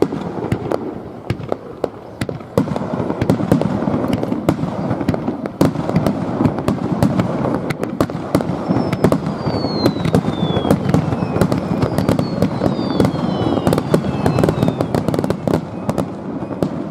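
Fireworks display going off in a dense barrage: rapid cracks and bangs over a continuous crackling rumble, with several falling whistles in the second half.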